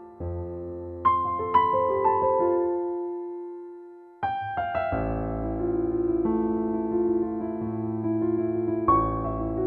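Solo piano playing a gentle, slow piece: a few single notes struck and left to ring and fade, then, about four seconds in, a fuller passage of sustained chords over low bass notes.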